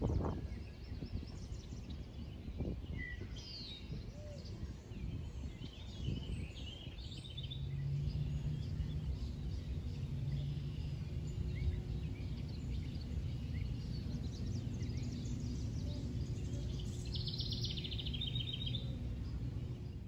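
Wild birds calling and chirping in a wooded marsh, with a fast trill of repeated notes near the end. A steady low hum joins the low outdoor background noise about a third of the way in.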